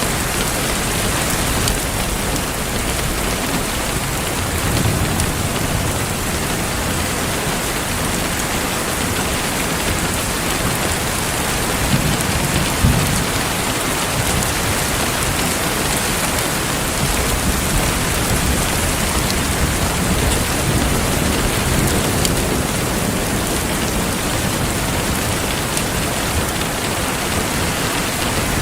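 Heavy rain falling steadily, with low rumbles of thunder, the strongest about twelve to thirteen seconds in.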